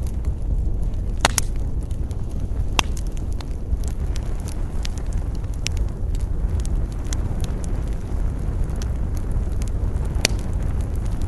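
Wood campfire crackling and popping, with several louder pops among many small snaps, over a steady low rush of wind.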